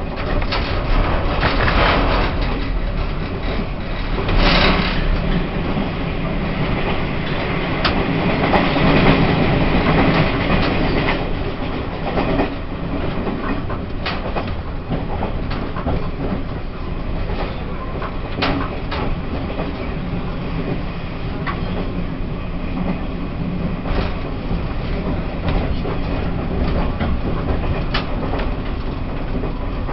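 Running sound of a Taiwan Railways E1000 push-pull Tze-Chiang express, heard on board: a continuous rumble of wheels on rail with occasional sharp clicks from the track. The sound swells briefly about eight to ten seconds in.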